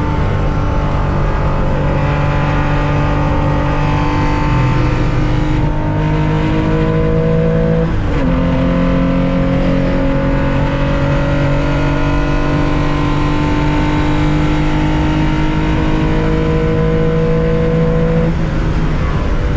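Onboard sound of a 1965 Porsche 911 2.0's air-cooled flat-six under hard acceleration, its note climbing slowly. About eight seconds in there is an upshift and the pitch dips briefly. The engine then pulls for about another ten seconds before lifting off near the end.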